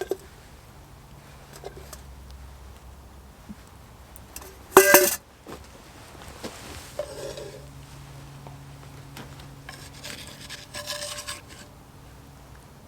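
Metal cookware and utensils clinking and scraping, with a loud ringing clatter about five seconds in and a further run of clinks near the end.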